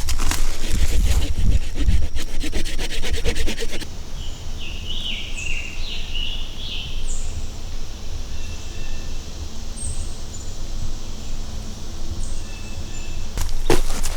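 Footsteps and rustling through forest brush and leaf litter for about four seconds, then quieter woodland with a bird giving a series of short, high chirps. The rustling returns near the end.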